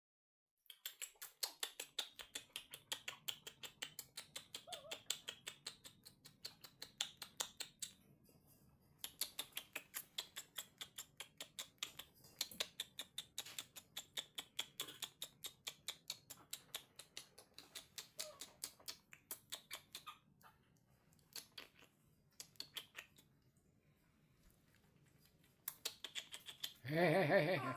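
Rapid wet smacking clicks, about four to five a second in long runs with short pauses, of a baby monkey sucking milk. A short loud vocal sound comes near the end.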